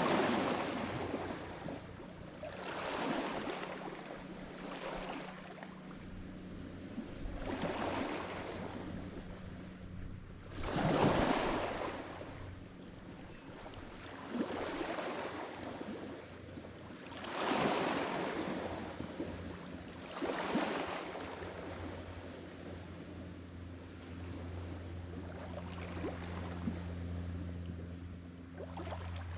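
Lake Michigan waves breaking and washing onto the shore, one surge every three to four seconds, the biggest about 11 seconds in. Under them runs a steady low hum that grows louder over the last several seconds.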